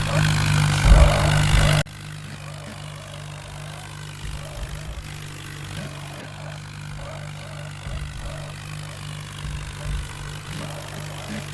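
Massey Ferguson tractor's diesel engine running steadily, loud for the first two seconds and then dropping suddenly to a quieter, steady level.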